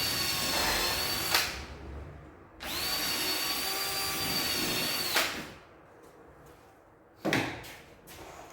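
Power drill driving screws into MDF: two runs of steady motor whine, the first about a second and a half long, the second about two and a half seconds, each ending in a sharp knock. Another sharp knock comes about seven seconds in.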